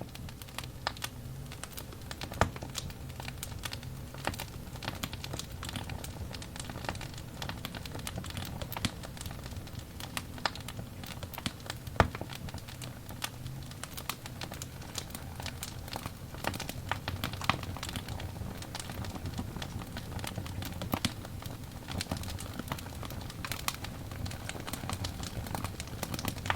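Burning wood logs crackling: irregular sharp pops and snaps over a low steady rumble of the flames, with a few louder pops, the loudest about halfway through.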